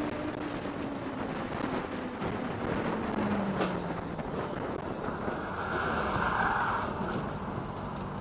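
Road traffic noise with a vehicle engine whose pitch falls steadily over the first few seconds as it slows. There is a short hiss about five seconds in.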